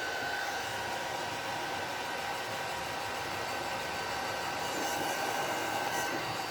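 Electric heat gun running steadily, its fan blowing with a steady whine, while shrinking heat-shrink tubing over soldered wire terminals.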